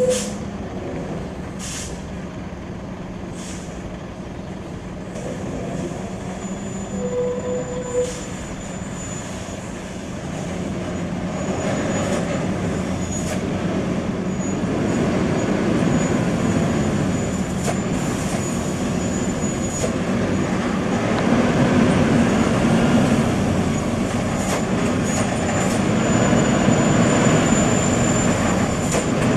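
Heavy truck running, its engine and road noise growing louder from about ten seconds in, with a few sharp clicks and a short beep about seven seconds in.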